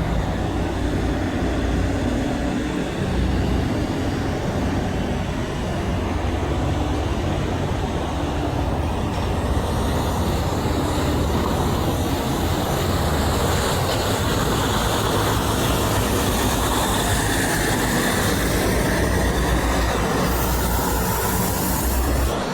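Heavy vehicles rumbling steadily past, with no horn sounding.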